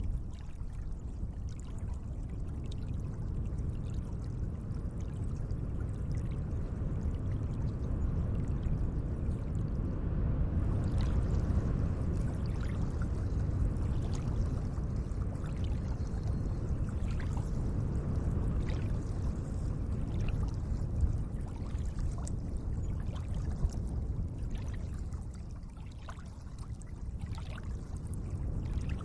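Gentle lake water: a steady low wash of moving water, with many faint short drips and splashes over it from about ten seconds in.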